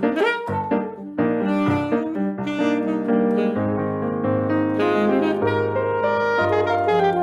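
Live saxophone with piano accompaniment playing Brazilian jazz: a quick run of short notes at the start, then longer held notes over piano chords and bass.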